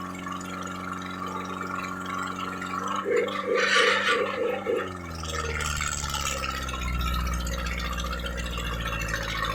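Heavy tractor diesel engine running hard and pulsing about three times a second, then its pitch drops about five seconds in and a deep low rumble takes over as it labours under the pull of a harrow.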